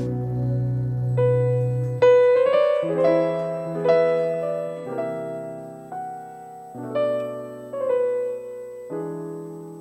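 Piano playing a slow passage of chords, a new chord struck about once a second and left to ring out, over a held low bass note in the first two seconds; the playing thins and fades near the end.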